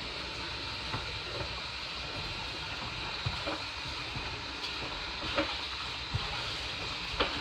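Washing machine running: a steady churning noise with a few short knocks at irregular intervals.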